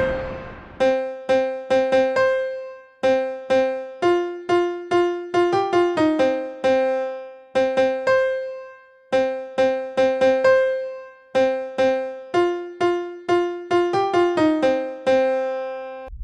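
Solo keyboard with a piano-like tone playing a simple melody one note at a time, each note struck and left to fade, in short phrases with brief pauses between them.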